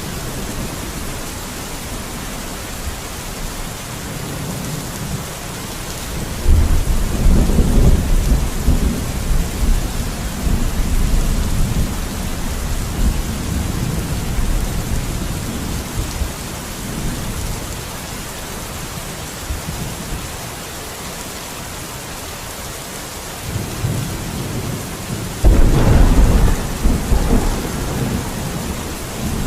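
Steady rain falling, with rolling thunder that rumbles up sharply about six seconds in and fades over several seconds, and a second loud roll of thunder about twenty-five seconds in.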